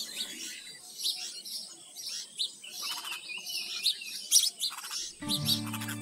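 Small birds chirping: many short, high chirps in quick succession. Background music comes back in about five seconds in.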